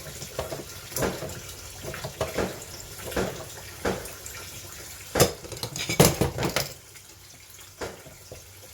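Fireworks going off in the background: a run of irregular sharp bangs and crackles, loudest about five and six seconds in.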